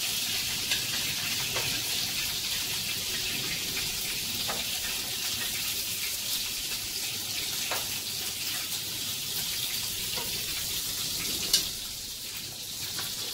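Minced-meat kababs shallow-frying in hot oil in a frying pan, sizzling steadily, with a few light clicks of metal tongs against the pan as they are lifted out and one sharper clink near the end.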